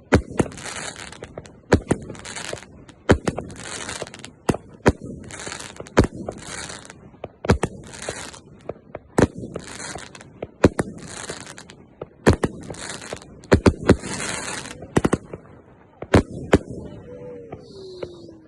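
Fireworks going off: a rapid, irregular series of sharp bangs with crackling hiss between them, stopping about sixteen seconds in.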